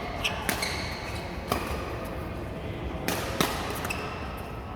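Badminton play: several sharp racket strikes on a shuttlecock a second or so apart, with short high squeaks between them.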